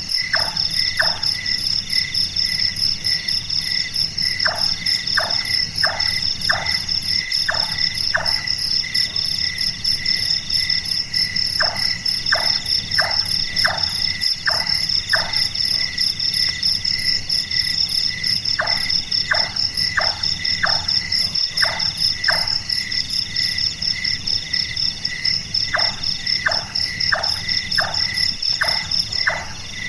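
Large-tailed nightjar calling: repeated series of six to eight evenly spaced knocking notes, about two to three a second, a sound likened to a carpenter hammering. The series come in five bursts over a steady chorus of crickets or other insects chirring and pulsing.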